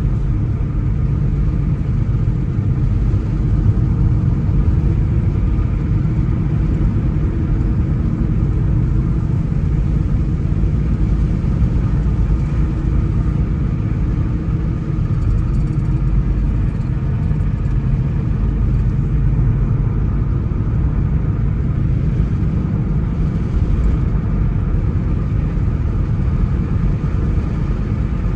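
A car driving at a steady speed: a continuous low rumble of engine and road noise.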